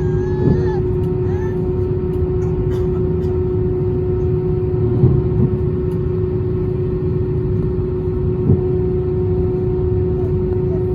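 Steady drone inside an airliner cabin on the ground before take-off: a low rumble with a constant hum, the engines not yet spooled up, with a few small knocks.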